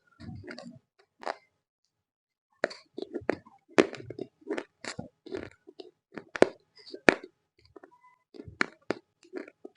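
Close-up biting and chewing of roasted Multani mitti (fuller's earth clay): a run of sharp, irregular crunches, pausing for about two seconds near the start.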